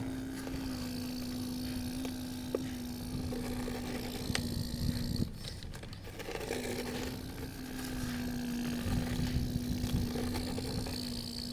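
Small electric motor of a radio-controlled model excavator running with a steady hum. It cuts off about five seconds in and starts again a second or so later, with a few light clicks along the way.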